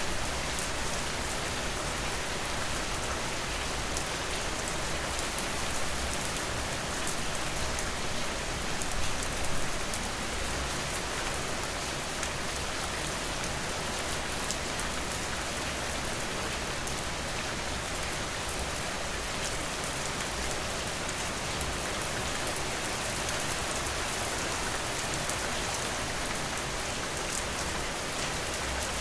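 Steady rain falling, an even dense hiss with scattered sharper drop ticks and a brief swell about nine seconds in.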